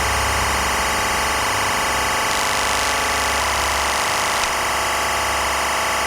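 Dense, steady electronic drone of noise and sustained tones with a deep bass hum underneath, which drops away about four seconds in.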